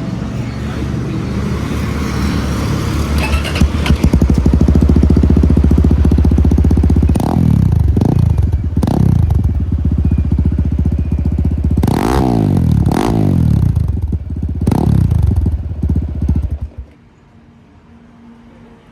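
Crossfire XZ250 motorcycle's exhaust, freshly repacked with new silencer fibre and with no dB killer fitted, idling. The rider blips the throttle about six times, each rev rising and falling quickly. The engine is switched off a couple of seconds before the end.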